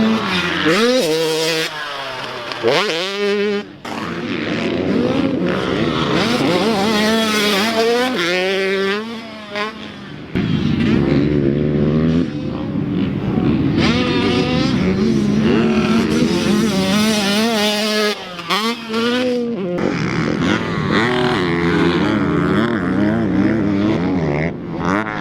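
Motocross dirt bikes riding the track, engines revving up and down again and again as they accelerate, shift and back off, with brief lulls a few times.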